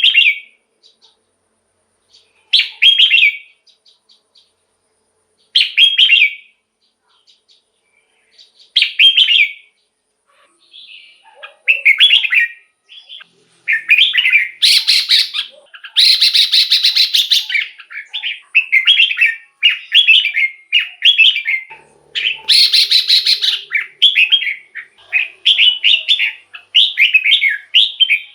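Red-whiskered bulbul singing: short whistled phrases every three seconds or so, then from about halfway a near-continuous run of quick phrases with louder, harsher stretches.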